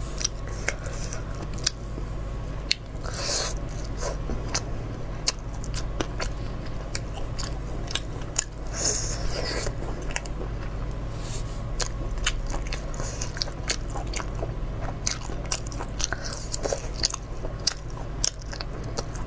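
Close-miked mukbang eating of spicy goose barnacles: a string of sharp clicks and cracks from biting and pulling at the shells, with wet chewing and crunching between them. A steady low hum runs underneath.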